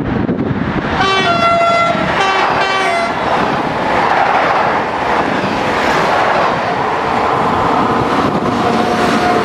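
Train horn sounded twice in quick succession about a second in, each blast a steady chord. Then the rumble of the approaching freight train builds as it nears.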